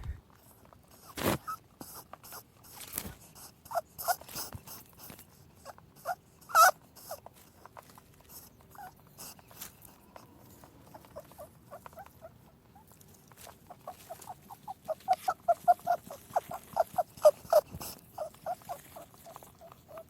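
Rabbits squeaking and clicking: scattered sharp clicks and short high squeaks, then a rapid run of squeaks from about 14 seconds in to the end.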